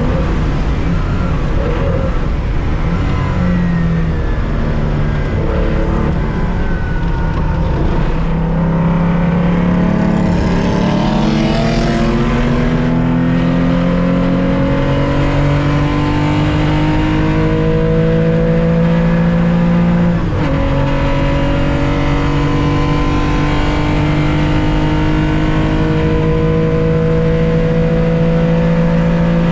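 1965 Porsche 911's 2.0-litre air-cooled flat-six at racing speed from inside the car: the engine pulls hard with its pitch climbing steadily. There is a quick upshift about twenty seconds in, and then it climbs again.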